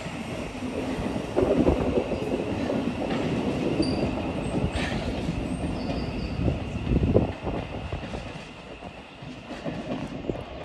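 Thameslink Class 700 electric multiple unit running past on curved track, its wheels rumbling steadily along the rails with a few knocks over rail joints. Brief high wheel squeals come in the middle as it takes the curve, and the sound eases near the end.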